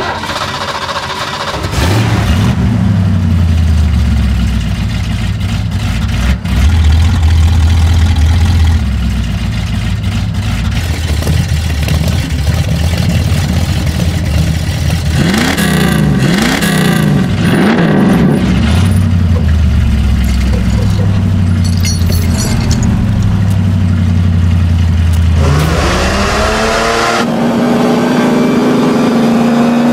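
Dubbed-in car engine sound: it starts up, then idles low and steady. About halfway through the throttle is blipped three times. Near the end the engine revs up and holds at high revs.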